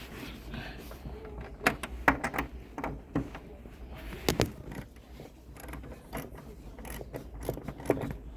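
Hand tools clicking and knocking on metal at irregular intervals, typical of a ratchet and socket being worked on a car's shock absorber bolts.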